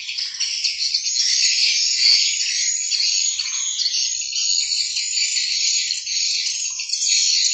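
Dense, steady high-pitched chorus of calling wild animals, frogs and insects, with scattered fainter lower calls mixed in.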